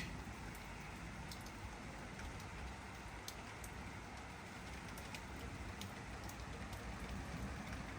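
Steady rain falling, a constant hiss with many separate drops ticking sharply and irregularly close by.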